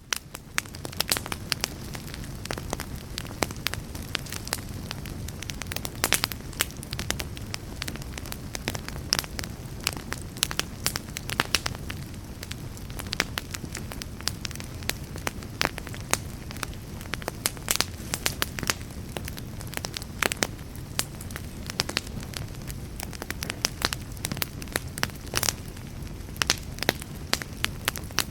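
Fire crackling: frequent, irregular sharp pops and snaps over a steady low rumble of the flames.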